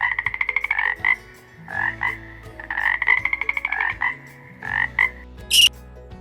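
Frog calling: rapid pulsed trills twice, about three seconds apart, with short croaks between them. A brief high-pitched squeak comes near the end.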